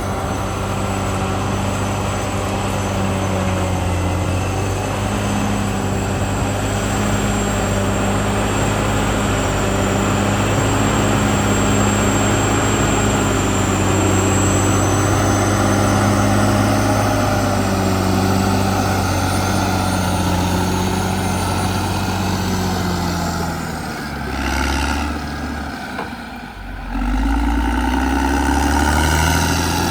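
Caterpillar D6R XL bulldozer's diesel engine running steadily under load, with a thin high whine above the engine hum. About three-quarters of the way through, the engine sound dips and shifts in pitch for a few seconds, then picks up again.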